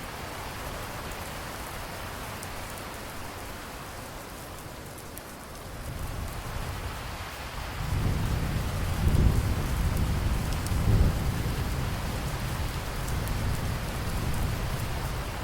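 Steady rain falling, with a low roll of thunder that builds about six seconds in, swells twice and slowly fades away.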